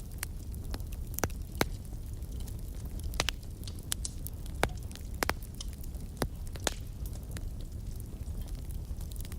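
Fire in a fireplace crackling, with irregular sharp pops over a steady low rumble of the flames.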